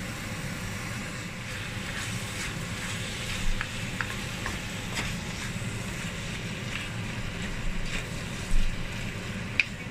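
Chicken sizzling and frying in a wok, a steady hiss, with a wooden spatula stirring and scraping against the pan and a few sharp knocks.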